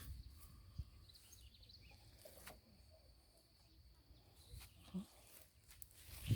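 Faint rural outdoor ambience: a steady high-pitched hum over a low rumble, with a few soft knocks and one sharper knock at the very end.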